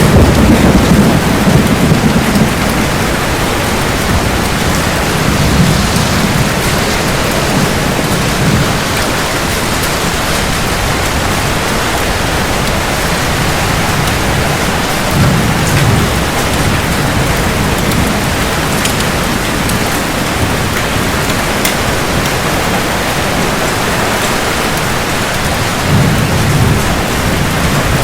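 Heavy rain falling steadily in a thunderstorm, with low rolls of thunder rumbling four times: the longest in the first few seconds, the others about a third of the way in, about halfway and near the end.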